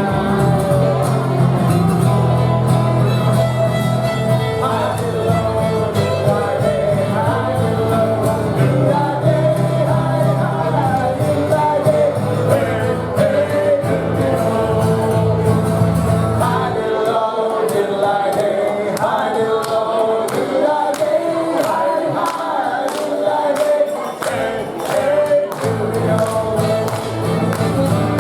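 A live song with several voices singing together over instrumental accompaniment. A low bass part drops out a little past the middle and comes back near the end.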